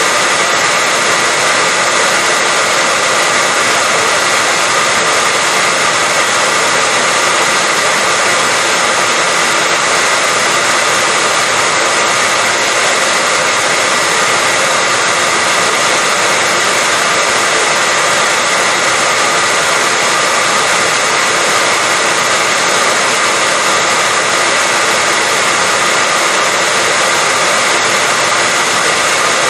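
Hair dryer running continuously at a steady level: an even blowing hiss with a faint high motor whine, used as white noise to put babies to sleep.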